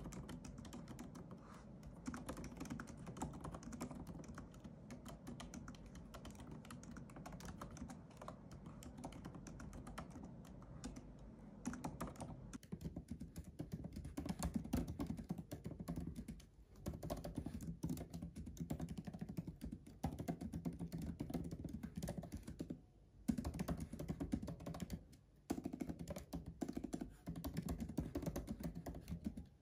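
Fast, continuous typing on a MacBook Pro laptop's built-in keyboard: a dense run of quick, soft key clicks, with a few brief pauses in the second half.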